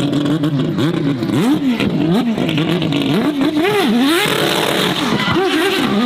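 A high-performance car engine revving up and down again and again, its pitch rising and falling in quick arcs like repeated throttle blips.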